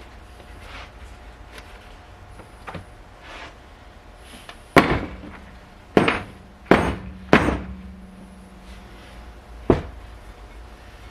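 Hammer blows on metal: four hard strikes about a second apart, then a lighter one about two seconds later, with a low ring hanging on after the first strikes.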